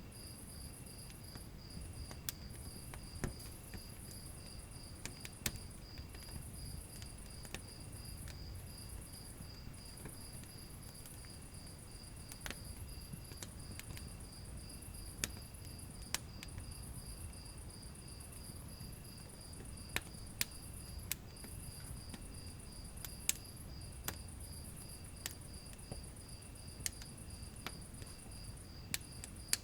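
Wood fire in a fireplace crackling, with scattered sharp pops over a low rumble of flames. Behind it a cricket chirps in a steady, even pulse, with a higher insect trill coming and going.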